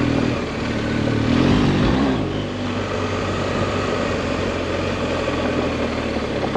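Adventure motorcycle engine running while riding a dirt road, with a steady rushing noise over it. The engine note rises about a second in, drops back at around two seconds, then holds steady.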